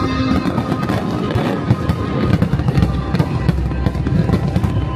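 Aerial fireworks going off in many rapid bangs and pops, over loud music.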